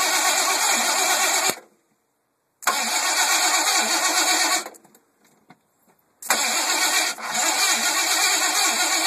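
A mud truck's engine being cranked by its starter motor in three bursts with short pauses between them, without catching. The starter is drawing a lot of current.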